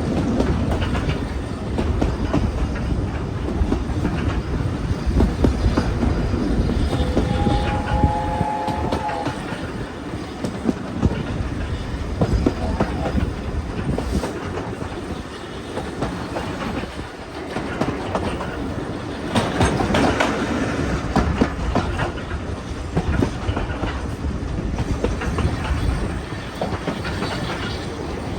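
Train running along the track: a steady rumble with the clickety-clack of wheels over rail joints, and a brief steady tone about seven seconds in.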